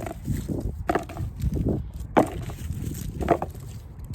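Wind buffeting the microphone in a steady low rumble, with three sharp knocks about a second apart.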